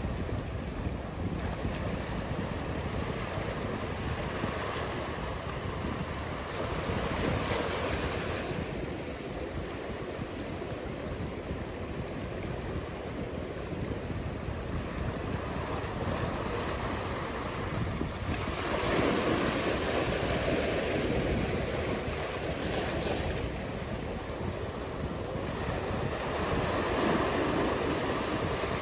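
Ocean surf: a steady rush of waves washing and breaking, swelling louder several times as bigger sets come in.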